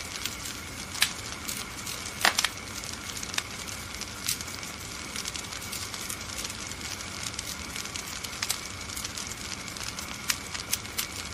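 Wood fire crackling in a fireplace: a steady hiss under frequent sharp snaps and pops, the loudest a single pop about a second in and a quick cluster a little after two seconds.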